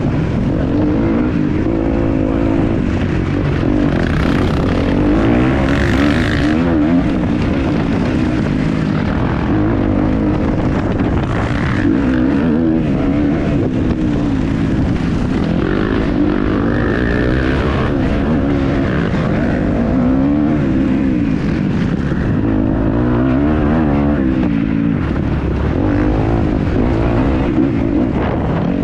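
Kawasaki KX250F four-stroke single-cylinder motocross engine under hard riding, its pitch climbing and dropping again and again as the throttle is opened and shut and gears change, with wind and track noise.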